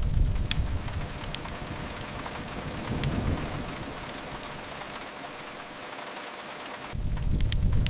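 Steady rain hiss mixed with a wood fire's sharp crackles and pops. A low rumble fades about a second in and comes back about seven seconds in.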